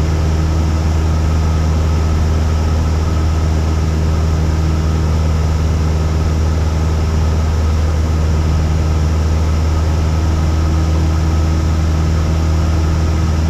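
Cessna 172's single piston engine and propeller droning steadily in flight, a deep constant hum with no change in pitch.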